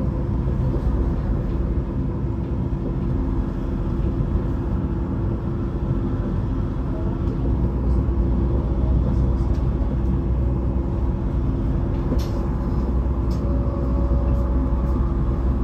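Vy electric passenger train running, heard from inside the carriage: a steady low rumble with a constant hum, and a brief click about three quarters of the way through.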